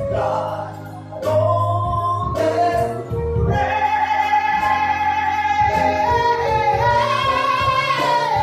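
A solo singer performing a praise song over instrumental accompaniment, holding one long high note through the second half that steps up in pitch near the end.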